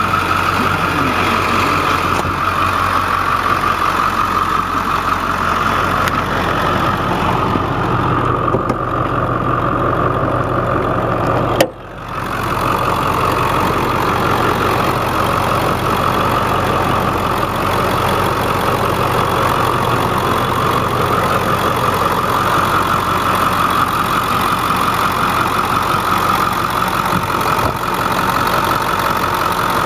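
Ford 7.3-litre Power Stroke V8 turbo diesel idling steadily. The sound briefly drops out about twelve seconds in, then comes back.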